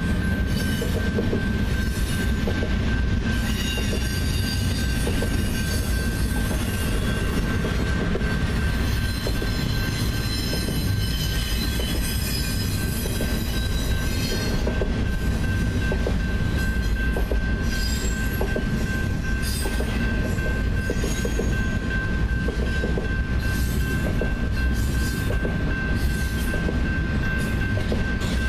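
Long BNSF double-stack container train rolling past a grade crossing at speed: a steady rumble of wheels on rail with repeated clacks from the cars. A thin, steady high-pitched tone is held throughout.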